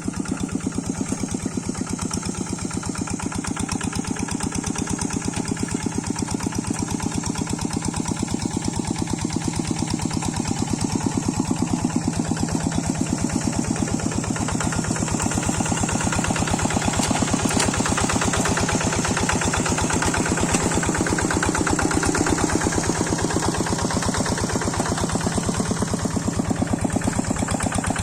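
Old Kubota single-cylinder diesel engine on a hand tractor running steadily, its firing beats evenly spaced and rapid, growing a little louder through the middle.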